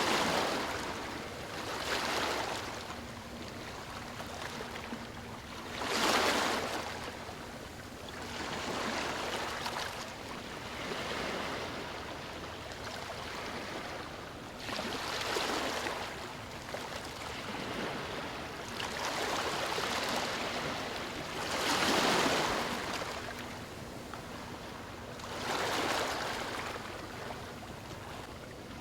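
Gentle ocean waves lapping on a shore: a steady wash of water with a swell every few seconds as each wave breaks and draws back.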